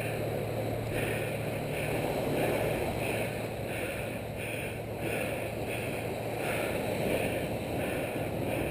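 Steady rush of ocean surf and wind, with a faint regular pulsing higher up about twice a second.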